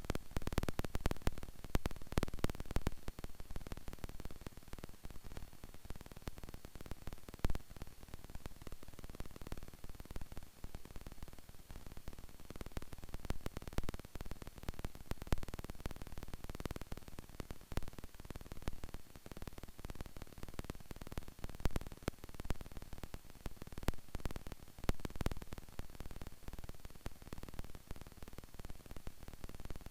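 Crackling static and hum on a cockpit audio recording, full of irregular clicks and pops.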